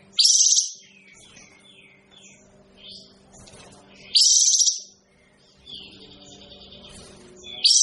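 Songbird known as kapas tembak singing short, loud, high phrases about every four seconds: one at the start, one about four seconds in, one at the end. Softer chirps fill the gaps, over a steady low hum.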